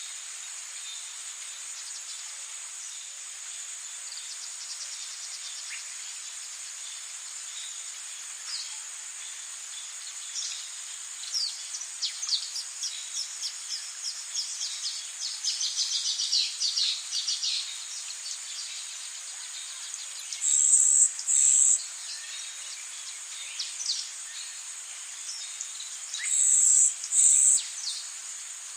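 Rainforest ambience: a steady high-pitched insect drone, with a bird giving a quick run of short falling notes through the middle, and two loud high calls, each a pair, near the end.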